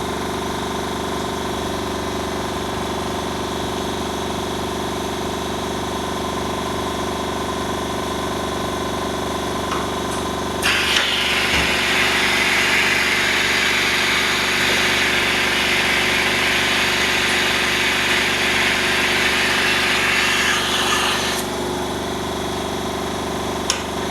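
External vacuum pump of a phone-screen laminating machine running with a steady hum. About ten seconds in a loud hiss of rushing air starts suddenly, and it cuts off about ten seconds later.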